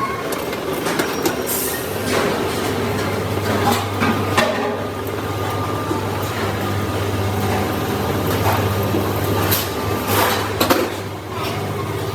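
Metalworking workshop noise: a steady low machine hum, with a few separate metal knocks and clatters scattered through it.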